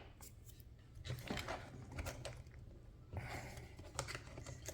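Light clicks and rattles of small plastic RC car parts being handled and worked with hand tools, in short scattered clusters.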